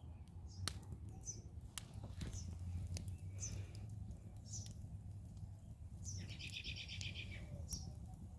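Wild birds chirping in short high notes every second or so, with one rapid buzzy trill about six seconds in. Under them, sharp scattered pops from the burning wood and a low steady rumble.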